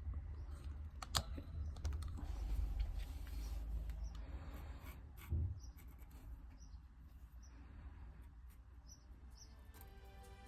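Low rumbling handling noise with a few sharp clicks, then faint short high chirps repeating every second or so. Background music comes in near the end.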